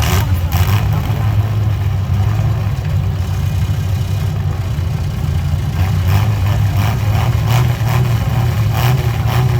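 Race vehicle engines running steadily at moderate speed, a deep even drone, while the field circulates under caution. A few short noisy bursts come over it in the second half.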